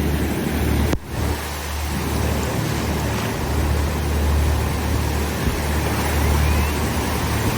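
Wind buffeting the microphone in a steady low rumble over the continuous wash of ocean surf, with a brief dip about a second in.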